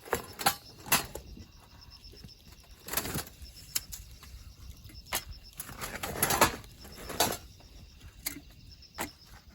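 Scattered knocks and clicks with a few short rustles, irregular and unrhythmic, the loudest rustle a little past the middle.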